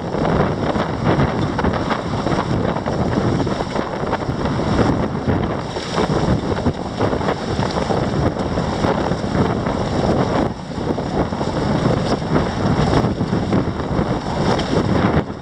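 Strong wind buffeting the microphone over the rushing, splashing water along the hulls of a small sailing catamaran moving fast in a fresh breeze. It eases briefly about ten and a half seconds in.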